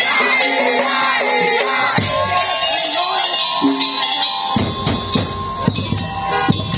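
Madurese tong-tong band playing: a sustained melodic line over percussion. Heavy low drum strikes join about two-thirds of the way through.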